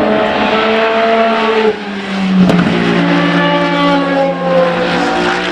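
Race car engines on track. One car's engine note cuts off abruptly about two seconds in, and another car's note then falls steadily in pitch as it goes by.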